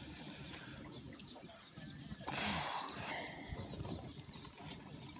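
Small birds chirping repeatedly in the background, with a brief rush of noise a little over two seconds in.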